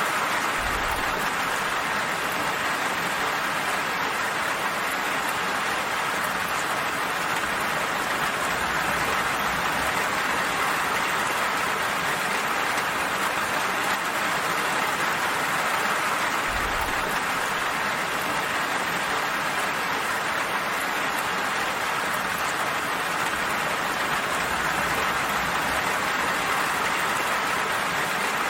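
Steady, even rain falling, a continuous hiss of drops without a break, with a brief low rumble under it twice.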